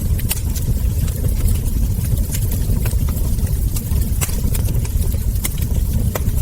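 Wood fire burning: a steady low rumble with frequent, irregular sharp crackles and pops from the burning logs and embers.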